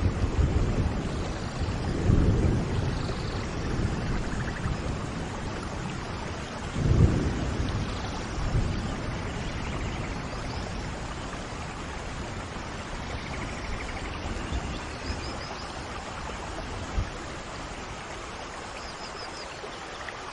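Heavy rain falling steadily, with deep low rumbles swelling up about two and seven seconds in.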